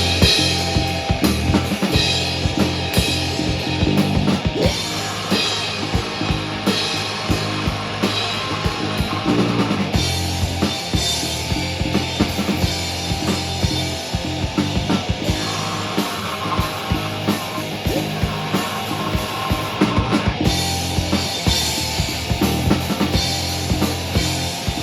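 Live rock band playing an instrumental passage, the drum kit prominent with bass drum and snare hits over sustained low notes.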